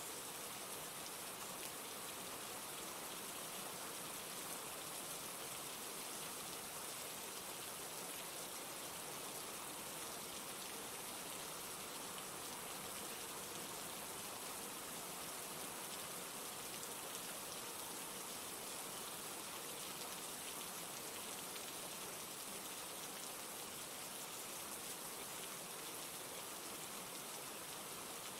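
Steady rain falling, an even hiss of many drops without breaks or thunder.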